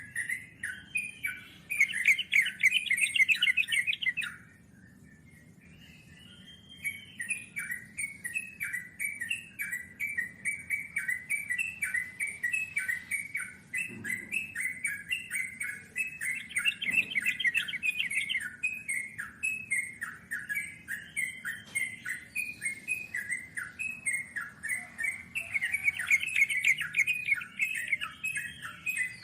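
Yellow-vented bulbul (trucukan) song: a running chatter of quick notes, broken by three louder rolling trills, at the start, in the middle and near the end. The song stops for about two seconds a few seconds in.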